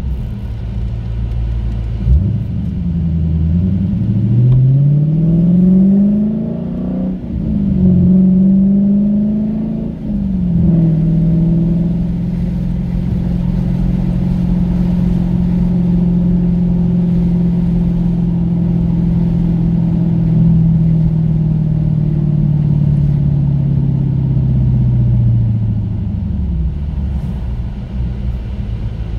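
Dodge Challenger Scat Pack's 6.4-litre Hemi V8 heard from inside the cabin, rising in pitch as the car accelerates over the first several seconds. It then runs at a steady cruise and drops away near the end as the car slows.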